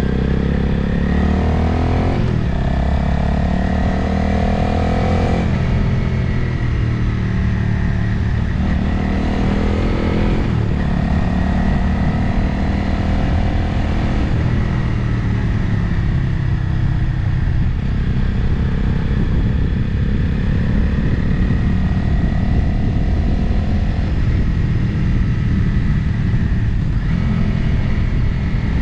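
Motorcycle engine running under way, with heavy wind rush on the microphone. Its pitch climbs and drops several times in the first ten seconds or so, as with throttle changes and gear shifts, then settles to a steadier note.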